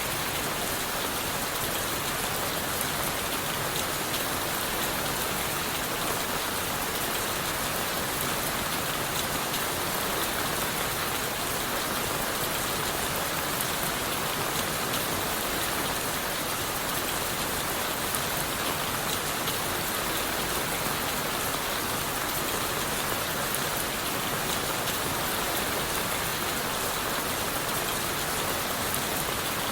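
Steady rain falling on leaves, wood and the forest floor, an even hiss that does not change.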